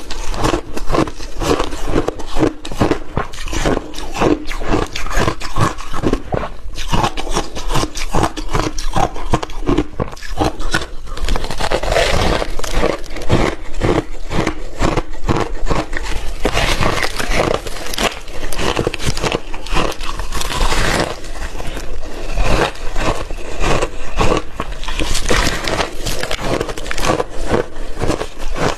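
Close-up crunching and chewing of frozen milky shaved ice, a fast, unbroken run of crisp bites and crunches.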